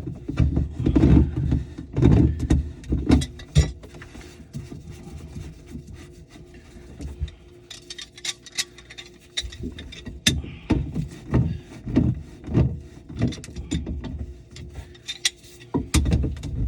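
Irregular knocks, clicks and scraping of tools and plumbing parts being handled under a kitchen sink. It is busy with heavier thuds for the first few seconds, quieter with scattered clicks through the middle, then busy again from about ten seconds in.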